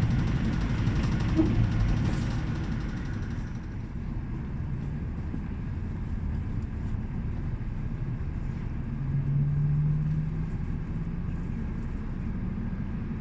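Train rumbling along the station platform, loudest at first and easing off after about three seconds into a quieter, steady running noise, with a brief low hum about nine seconds in.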